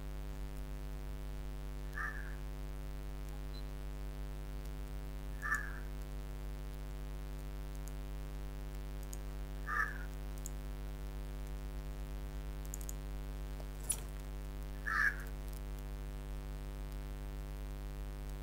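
Steady electrical hum, with a short call heard four times a few seconds apart and a single sharp click a little before the last call.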